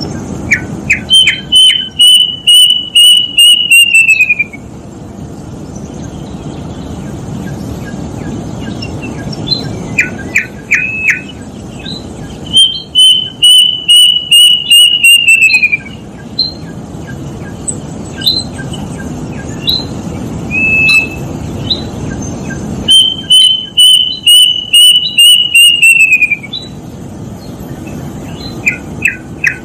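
Kedasih (plaintive cuckoo) singing three phrases, each a few short rising whistles followed by a quick run of about nine clear whistled notes that slide down in pitch at the end. Fainter chirps come between the phrases, and a fourth phrase begins near the end.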